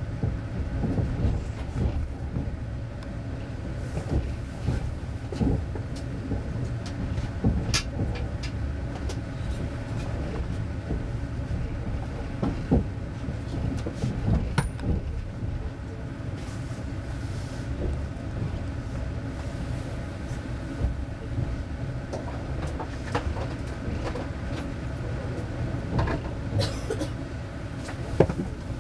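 Interior of a moving passenger train coach: a steady low rumble of the running gear on the rails, with scattered sharp knocks and rattles from the carriage.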